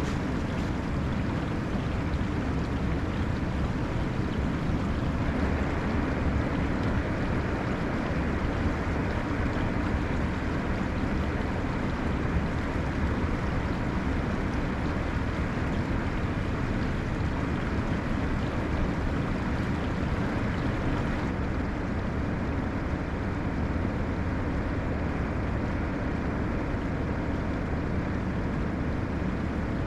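Water rushing out of a freshly unclogged lake drain, a steady, heavy, raging flow swollen by snowmelt. Its tone shifts slightly about five seconds in and again about twenty seconds in.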